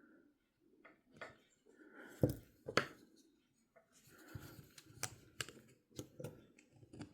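Small metal clicks and taps from pliers working a tiny C-clip onto the parts of an Abumatic 150 fishing reel, the two sharpest a little over two seconds in and several more about five to six seconds in.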